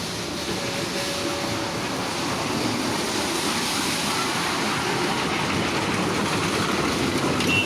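A train running on the rails: a steady rumbling noise that slowly grows a little louder.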